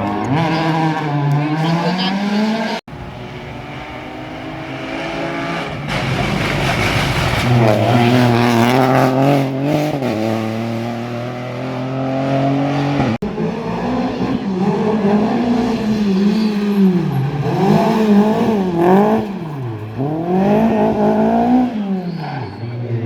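Rally car engines revving hard, their pitch climbing and dropping sharply again and again with gear changes and lifts off the throttle. Abrupt cuts twice join separate passes.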